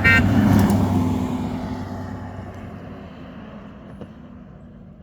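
A motor vehicle passes close by on the road, loudest in the first second and then fading away over a few seconds. A horn toot is just ending at the very start.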